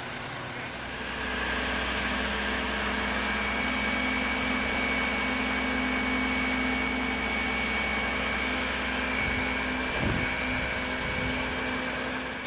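Crane engine running steadily under load during a lift, with a steady whine over it; it gets louder about a second in and then holds even. A brief knock near the end.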